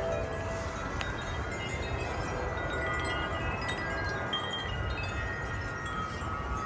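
Wind chimes ringing in a gust, many overlapping metal tones struck at random, over wind rumbling on the microphone.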